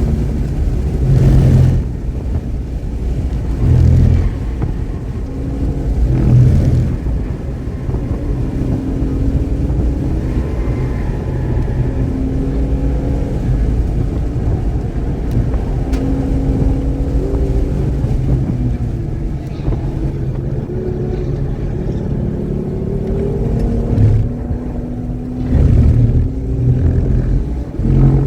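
A track car's engine running hard on a circuit, its pitch climbing steadily and dropping back several times as it pulls through the gears. Heavy low thumps come every few seconds over the rumble. The engine runs cleanly with no misfire.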